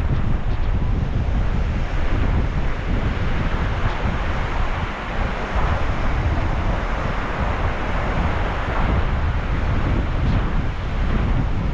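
Sea surf washing in a continuous rush, with wind buffeting the microphone and a heavy low rumble.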